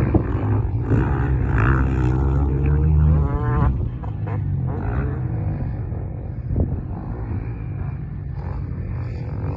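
Yamaha PW50 mini motocross bike's two-stroke engine running, its pitch rising about three seconds in, then easing back quieter.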